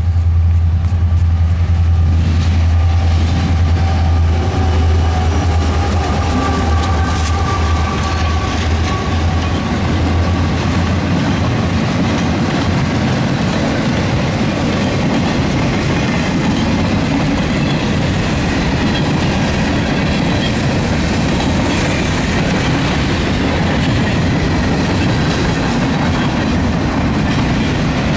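Freight train rolling past close by: a deep steady drone fades out over the first ten seconds or so, then the cars go by with a steady rumble and wheel clatter.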